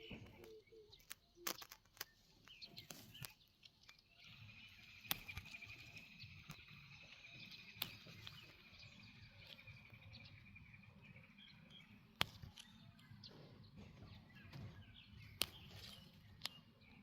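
Faint countryside ambience with birds calling: short, sharp chirps scattered throughout, and a long, even trill that starts about four seconds in and runs for about eight seconds.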